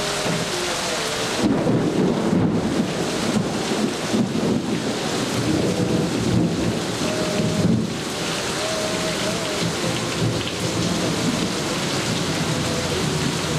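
Heavy rain falling steadily, with a long, rolling rumble of thunder that sets in about a second and a half in.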